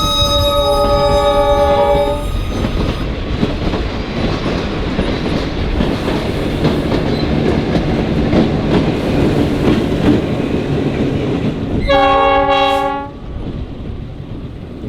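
Rock Island diesel locomotive's multi-chime air horn sounding for the road crossing, held until about two seconds in. The train then rumbles and clatters past, with a second horn blast of about a second near the end before the noise fades.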